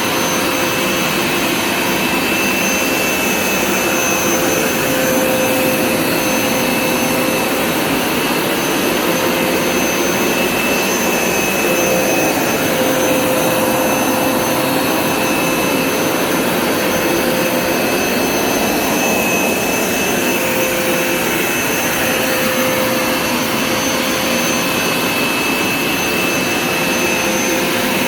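Hoover Smartwash Pet Complete carpet cleaner running, its suction motor giving a steady whine with a rushing hiss as it is worked over the carpet.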